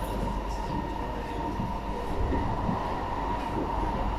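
SMRT metro train running between stations, heard inside the carriage: a steady rumble of wheels on rail with a constant whine near 1 kHz.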